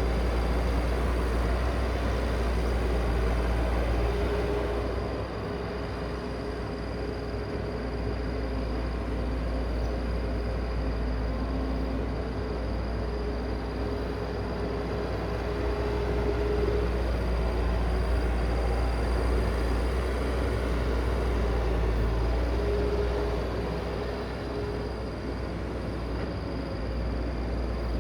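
Heavy machinery running: a steady low engine rumble with a faint high whine, easing off slightly now and then.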